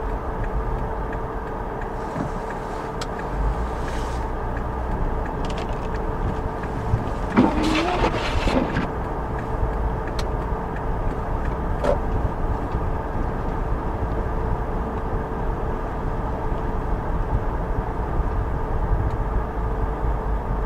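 Car cabin noise while driving: a steady engine and road rumble with a constant hum. About eight seconds in there is a brief wavering squeal, and there are a few light clicks.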